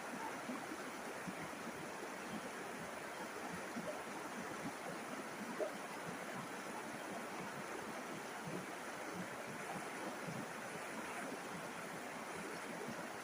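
River water flowing, a steady rushing babble dotted with small gurgles, one a little louder about halfway through.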